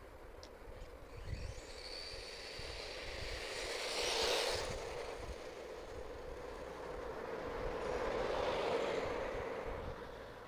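An HPI Savage XS SS Flux brushless electric mini monster truck, geared with a 32-tooth speed pinion, driving fast on the street: a high motor and gear whine with tyre noise. The whine rises in the first couple of seconds, and the sound swells as the truck comes close about four seconds in and again around eight to nine seconds.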